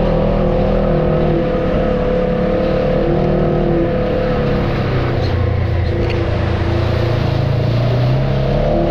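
Off-road vehicle engine running steadily under light throttle, its pitch rising and falling a little.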